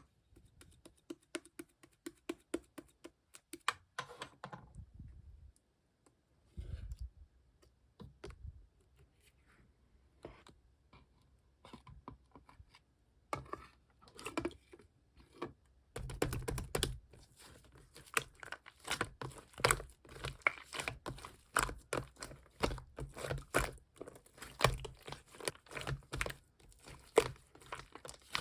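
Clear slime being squeezed, stretched and folded by hand: a stream of small sticky clicks and pops, sparse at first and becoming dense and louder about halfway through.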